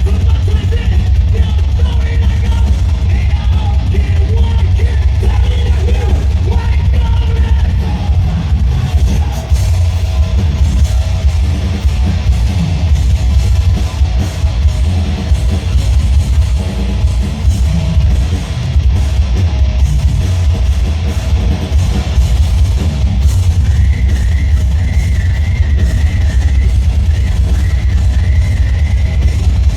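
Live heavy metal band playing loud through a concert PA, with distorted guitars, drum kit, vocals and heavy low bass. A high, wavering melody line comes in near the end.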